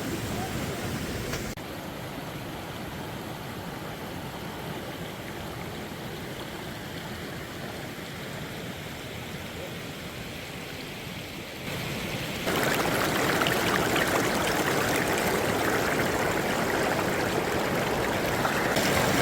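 Mountain valley stream rushing steadily, much louder from about twelve seconds in.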